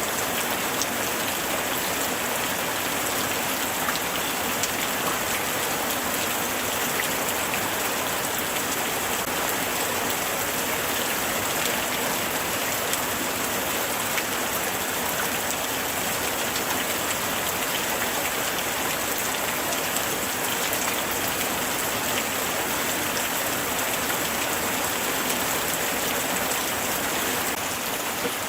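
Steady light rain falling on a surface, an even hiss with many small drop ticks throughout.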